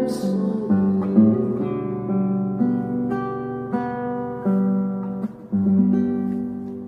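Acoustic guitar playing a slow instrumental phrase, melody notes over bass notes, with the sound fading away near the end.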